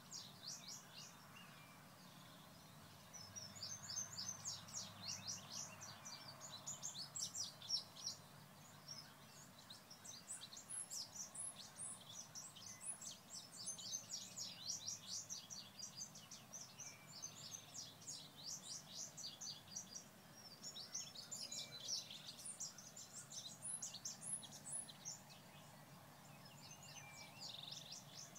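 Songbirds singing: quick runs of high chirps repeated in bouts of a few seconds, heard faintly over a steady outdoor background hum.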